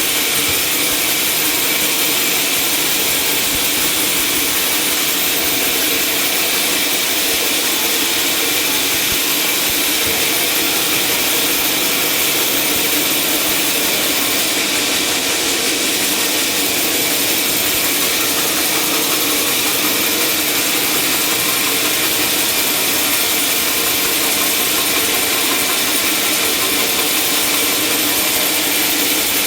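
Sawmill saw cutting through timber, a loud, steady run without breaks.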